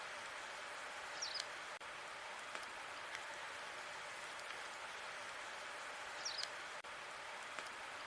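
Wood fire burning in a fireplace: a steady hiss with faint scattered crackles and pops, and two brief higher squeaks about five seconds apart.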